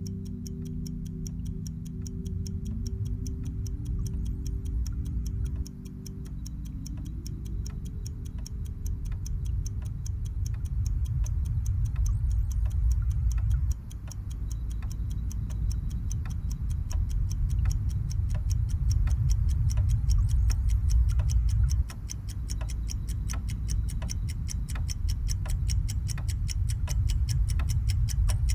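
Composed soundtrack of fast, even clock-like ticking over a dense low rumbling drone. Held tones early on slide upward and fade. The whole swells gradually and drops back suddenly about every eight seconds.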